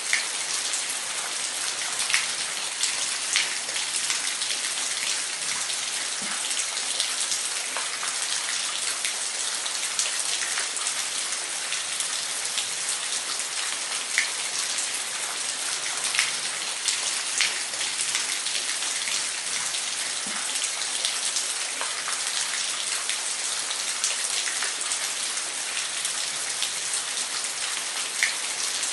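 Waterfall: a steady hiss of falling water with scattered sharp splashes of single drops.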